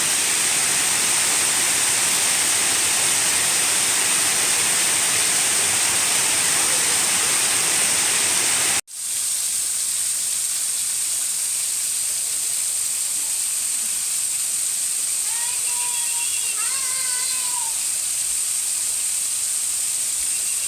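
Waterfall rushing steadily. After a sudden cut about nine seconds in, a softer, hissier rush of falling water continues, with a brief high pitched call a little past the middle.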